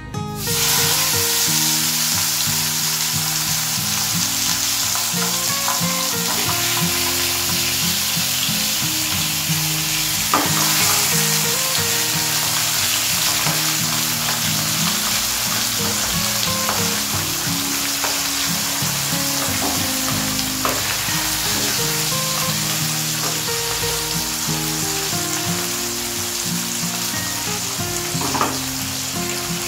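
Pabda fish (butterfish) sizzling in hot mustard oil. The frying hiss starts suddenly as the fish go into the oil and then holds steady.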